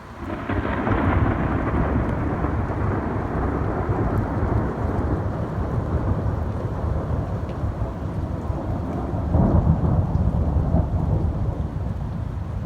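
Thunder rolling in a long rumble that swells sharply just after the start and slowly dies away, then swells again about nine seconds in, with rain falling throughout.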